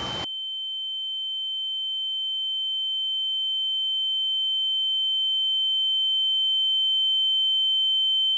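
A single steady, high-pitched electronic tone, with all other sound cut out, slowly growing louder over several seconds.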